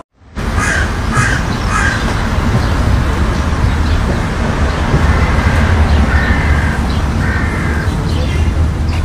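Bird calls: three short cawing calls about half a second apart near the start, then a few longer calls later, over a heavy rumble of wind on the microphone.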